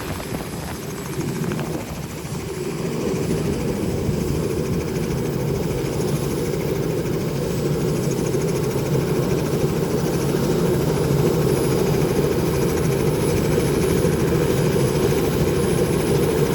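A helicopter running: a steady, dense rotor and engine noise that grows a little louder over the first few seconds and then holds even.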